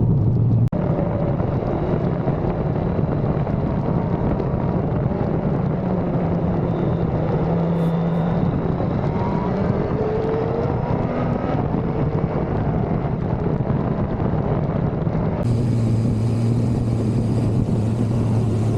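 1985 Suzuki GSX-R750F's oil-cooled inline-four running while the bike is ridden, with steady wind and road noise over it. The engine note rises and falls in places, and grows stronger and steadier near the end.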